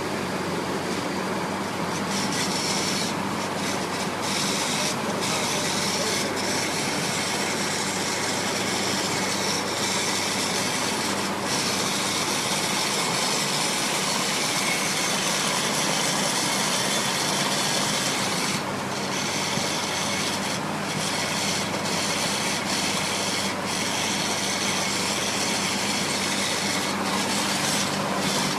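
Steady vehicle driving noise: a constant low engine drone under an even, rushing hiss, with no change in pace.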